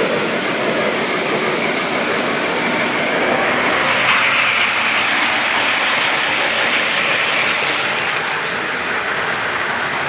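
Lionel O-gauge model trains running on three-rail track: a steady rolling rumble of wheels that swells for a couple of seconds about four seconds in.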